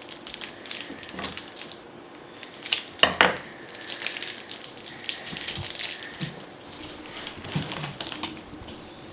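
Packaging being handled and opened by hand: scattered crinkles and small clicks, with one louder burst about three seconds in.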